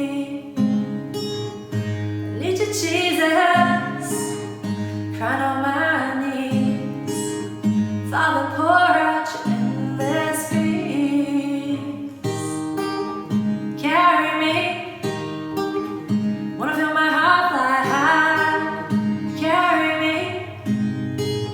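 A woman singing a slow song over acoustic guitar accompaniment, her sung phrases coming every couple of seconds.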